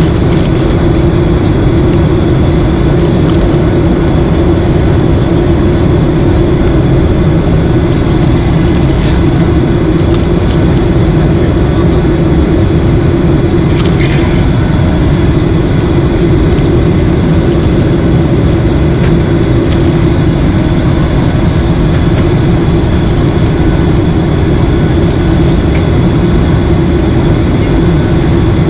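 Steady cabin noise of a Boeing 737-800 in cruise: a constant drone of engines and rushing airflow with a steady low hum.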